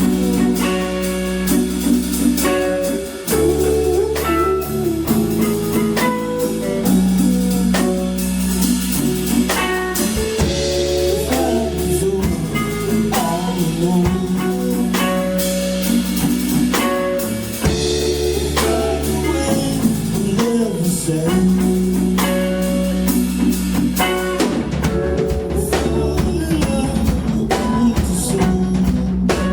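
A live band playing: guitar, bass and drum kit in a steady groove, with sustained bass notes under the guitar lines.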